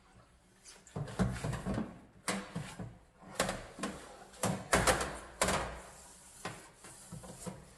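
A run of short, irregular knocks and scrubbing strokes from cleaning a dirty oven, loudest in a cluster about three and a half to five and a half seconds in.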